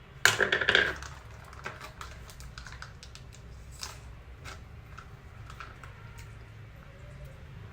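A short burst of rustling and clattering about a quarter second in, then scattered light clicks and taps as things are handled while the banana shake is made.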